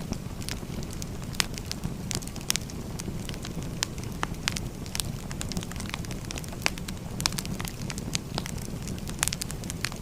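Firewood burning: a steady low rumble of flame with frequent sharp, irregular crackles and pops of the burning wood.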